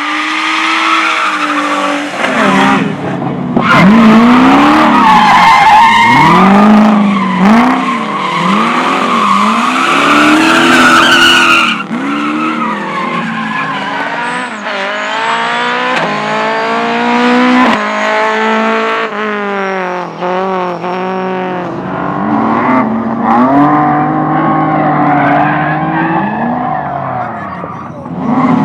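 Slalom car driven hard through a tight course: its engine revs climb and drop again and again, quick swings about once a second and then longer pulls, with tyres squealing through the turns.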